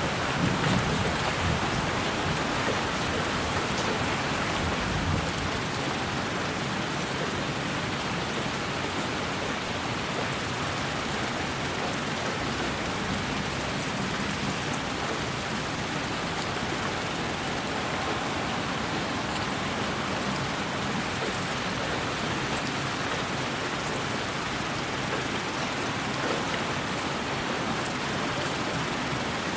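Steady rain: an even hiss with faint scattered drop ticks, slightly fuller in the first couple of seconds.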